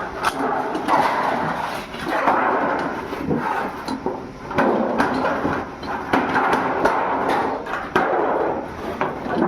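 Irregular hammer blows on sheet steel from old oil drums, several strikes a second over steady metalworking clatter.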